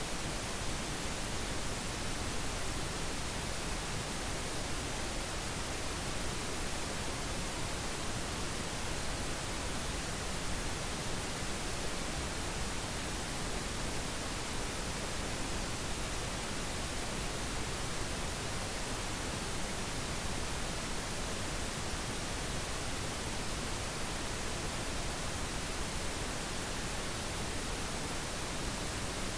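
Steady, unchanging pink noise: an even hiss across the whole range.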